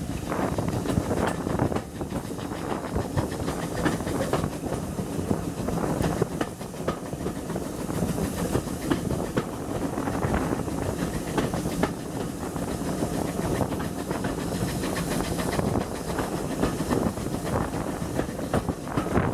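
Steam-hauled heritage train running at speed, heard from an open carriage window: carriage wheels clicking over the rail joints over a steady rumble and rush of air.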